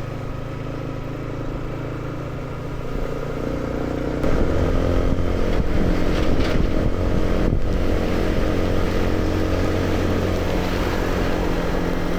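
Motorcycle engine running under way, as heard from the bike. About three to four seconds in it picks up pitch and gets louder as the bike accelerates, then holds steady.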